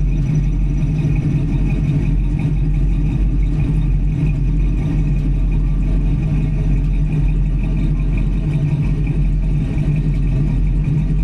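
1983 Oldsmobile Cutlass Hurst engine idling steadily, its exhaust note heard up close.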